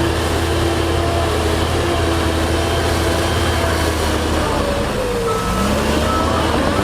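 Diesel engine of heavy earthmoving machinery running steadily with a low hum; about two-thirds in its pitch shifts, and a reversing alarm starts beeping near the end.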